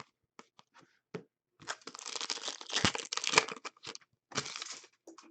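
A foil trading-card pack wrapper crinkling as it is torn open, in two stretches, the first and longer starting a little over a second in. A few light clicks from cards being handled come before it.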